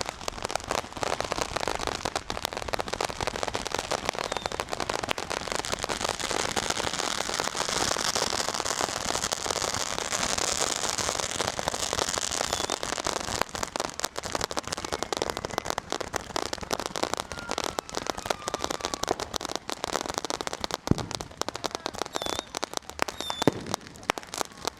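Dense, continuous crackle of many firecrackers and fireworks going off at once, a rapid stream of pops with a faint falling whistle midway and a couple of louder bangs near the end.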